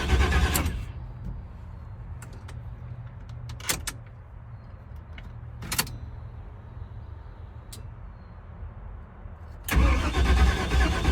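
Starter cranking an army truck's engine, which turns over without catching; the cranking stops about a second in, leaving a low steady hum and a few sharp clicks, then starts again near the end. The owner puts the failure to fire down to a small fuel leak leaving no fuel pressure.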